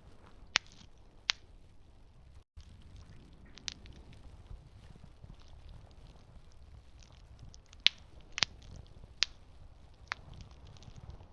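Campfire burning with a steady low rumble and irregular sharp pops from the burning wood, about seven in all; the loudest come near the start and about eight seconds in. The sound cuts out for a moment about two and a half seconds in.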